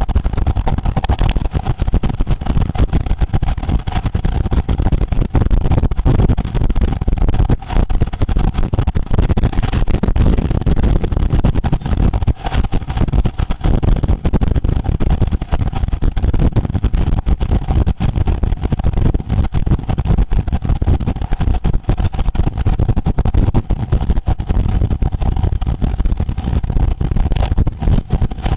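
Heavy wind buffeting on the microphone of a camera carried on a moving road bicycle, with a faint steady hum running under it.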